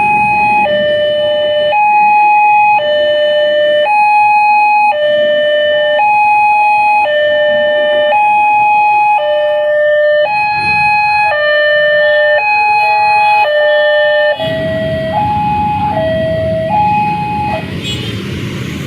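Railway level-crossing warning alarm sounding an electronic two-tone chime, alternating high and low notes about once a second; for a few seconds a second alarm out of step overlaps it. About fifteen seconds in, a broad rumbling noise rises, and the alarm stops shortly after.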